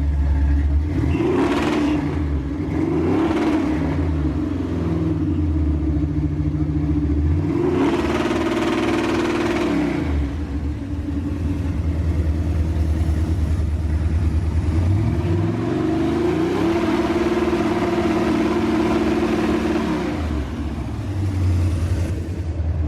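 Carbureted V8 truck engine revved against a two-step launch rev limiter, which holds it at a fixed rpm. It blips up twice briefly, then twice runs up and holds steady at the limiter for a few seconds each, dropping back to idle in between.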